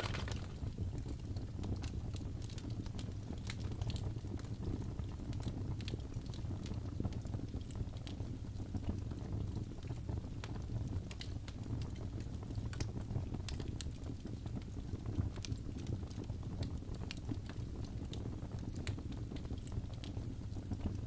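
Wood fire burning in a fireplace, with irregular sharp crackles and small pops over a steady low rumble of the flames.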